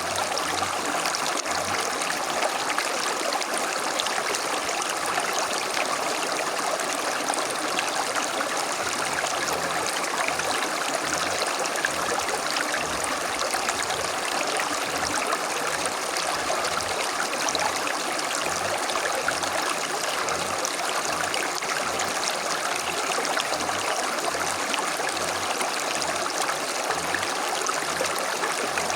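A small stream running over stones, a steady rush with trickling and gurgling water.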